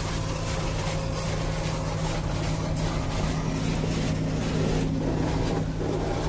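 Automatic car wash rinse heard from inside the car: water spray hitting the car's body in a quick, even pulsing hiss over a steady low machinery hum. Loud enough that the rider calls it noisy.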